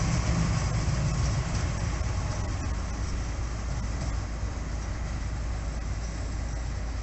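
TER regional multiple-unit train pulling away and receding down the line, its low rumble fading gradually.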